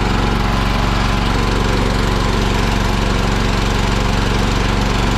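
John Deere 212 garden tractor's single-cylinder Kohler engine running steadily at an even speed. It is in gear, yet the tractor doesn't move and the engine doesn't bog or stall, which the owner puts down to the brake being on or a bigger drivetrain problem.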